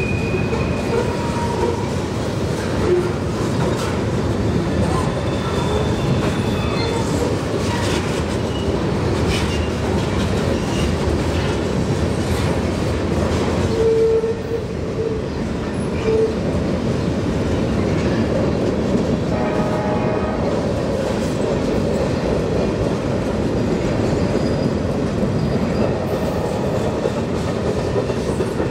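Wheeling & Lake Erie freight train rolling steadily, with the rumble and clatter of steel wheels on the rails and a few short squeaks about halfway through.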